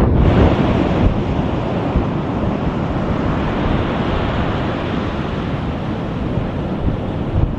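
Strong wind buffeting the microphone with a low, uneven rumble, over the steady rushing wash of ocean surf.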